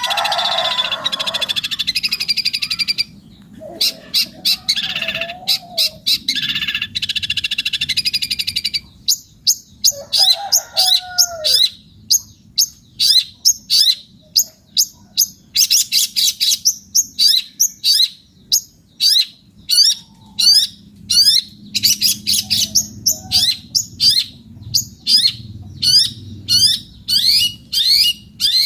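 Long-tailed shrike (cendet) singing hard. It opens with fast, harsh chattering runs, then after a short pause gives a long series of sharp down-slurred notes, about two a second.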